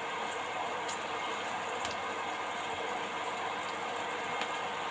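Beetroot leaves frying in hot oil: a steady sizzle with a few faint pops.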